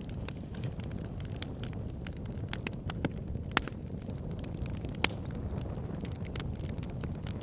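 Wood fire burning in a fireplace: a steady low rumble of flames with irregular crackles and a few sharper pops of burning logs.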